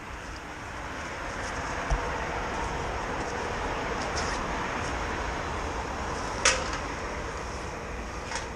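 Motorcycle on the move: engine and wind noise growing louder over the first few seconds, then holding steady, with a low knock about two seconds in and a sharp click about six and a half seconds in.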